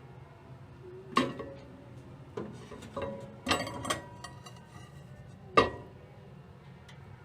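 A series of about six hard clinks and knocks, like glass or crockery being handled and set down, the loudest about a second in and again near the end.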